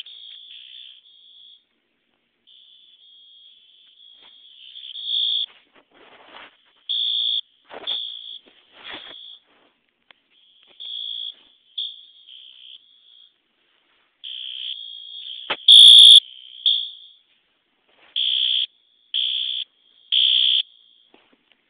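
Fire alarm horns, a System Sensor P2R horn strobe and a Wheelock AS, sounding on a test power supply: a loud, high, beeping horn tone in uneven bursts that ends in three evenly spaced short pulses.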